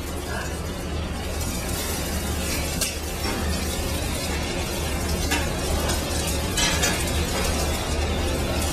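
Chicken pieces frying in hot olive oil in a pan: a steady sizzle with a few sharper crackles and pops.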